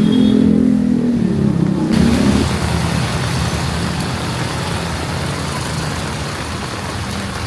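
A vehicle engine's drone for about the first two seconds. It gives way abruptly to steady heavy rain over city street traffic, with a low rumble underneath that slowly fades.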